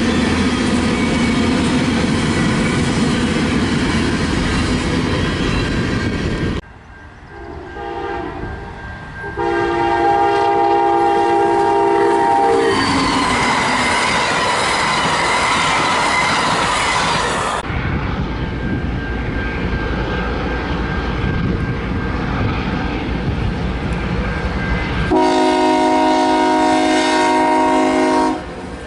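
Trains rolling past with steady wheel-on-rail noise, broken by abrupt changes from one passing train to the next. A locomotive's multi-note air horn sounds for a few seconds about a third of the way in, and again from near the end.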